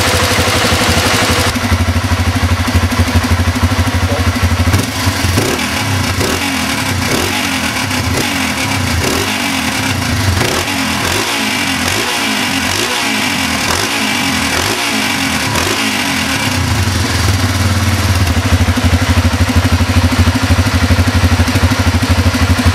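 Honda Transalp motorcycle engine idling, then revved repeatedly in short blips, rising and falling in pitch for about ten seconds, before settling back to idle.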